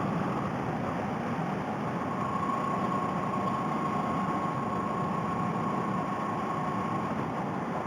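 Honda Rebel 250 motorcycle riding at a steady pace: an even mix of engine and wind noise, with a faint steady whine, picked up by a helmet headset microphone.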